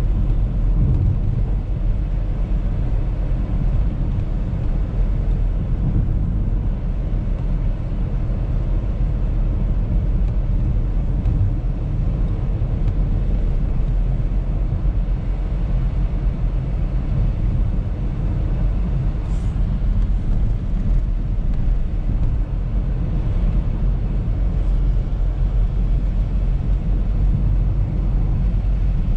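Audi A3 driving: a steady low rumble of engine and road noise that holds level throughout.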